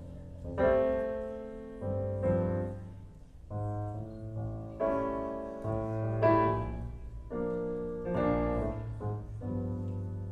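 Piano chords from a recorded song played back over hi-fi loudspeakers and picked up in the room, about eight chords struck one after another over a sustained low tone, with no singing.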